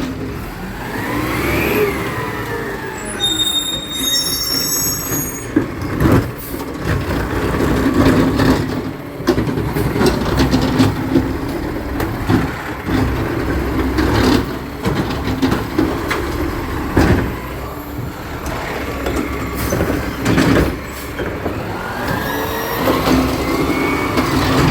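Recycling truck at work: engine running with a steady hum and a whine that rises and falls near the start and again near the end, with repeated clanks and bangs throughout and a brief high squeal a few seconds in.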